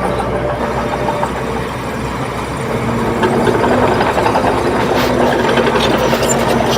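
Heavy diesel engine of a bulldozer running steadily, getting a little louder about three seconds in, with some metallic clatter in the second half.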